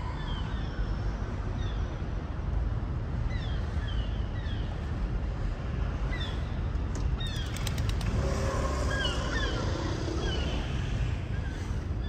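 Small birds chirping, many short falling chirps repeated over a steady low rumble.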